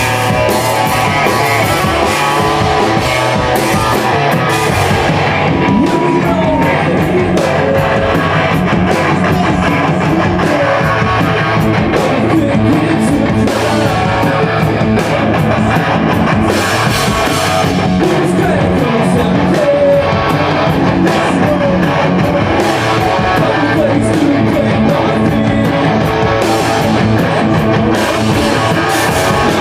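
Rock band playing live, guitars over a drum kit, loud and continuous.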